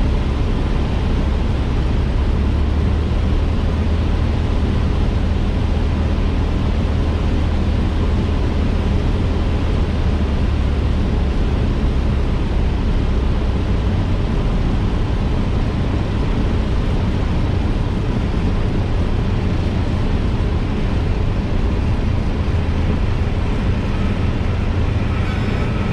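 Cessna light aircraft on approach to land: steady drone of its piston engine and propeller with air rushing past, the low drone easing somewhat about halfway through.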